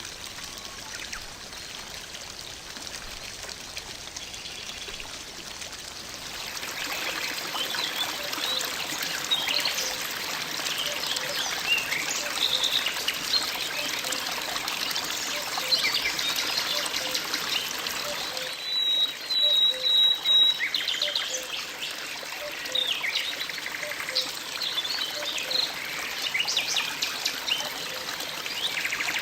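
Water trickling and flowing in a stream, with small birds chirping over it. About six seconds in, the water gets louder and the birdsong begins, including a brief high trill about two-thirds of the way through.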